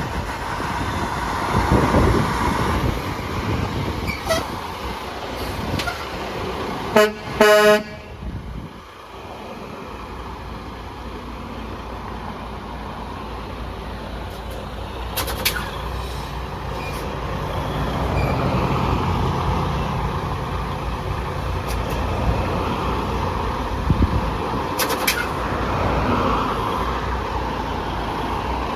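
Road traffic with a truck's horn giving two short blasts about a quarter of the way in. Afterwards a truck engine runs past, its drone building and then easing.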